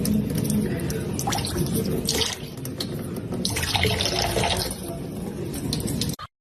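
Water splashing and sloshing in irregular bursts, cut off abruptly near the end.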